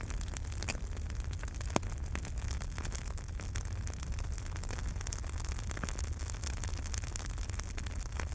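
Wood fire in a fireplace crackling, with frequent small pops over a steady low rumble and one sharper pop about two seconds in.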